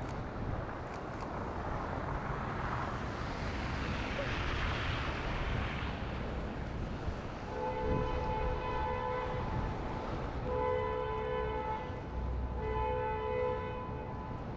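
A two-tone vehicle horn honks three times in the second half, each blast lasting one to two seconds, over wind noise on the microphone.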